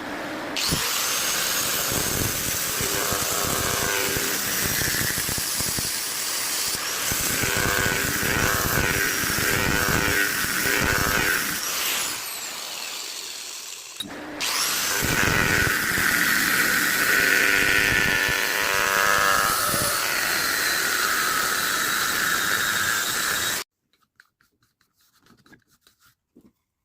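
An electric power tool running in two long stretches with a short break about fourteen seconds in; its whine rises and falls in pitch now and then, and it cuts off suddenly a few seconds before the end.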